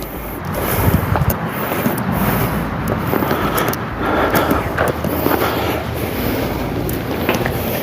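Harbor Freight electric transfer pump running steadily, pumping waste motor oil through a hose, with a low hum and scattered light clicks and knocks.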